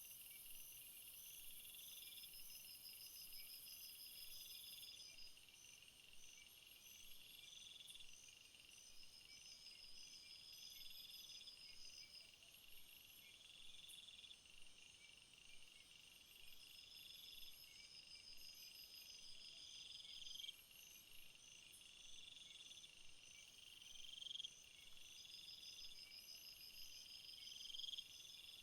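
A faint chorus of crickets and other insects chirping, several overlapping rhythms at once: a rising trill that repeats about every two seconds, a fast pulsing chirp above it, and short high ticking bursts.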